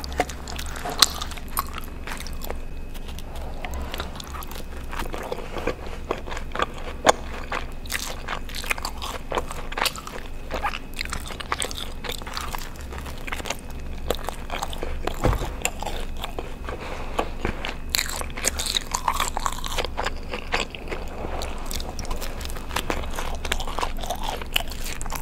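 Close-miked eating: biting and chewing a soft breadstick, with repeated wet mouth clicks and small crunches.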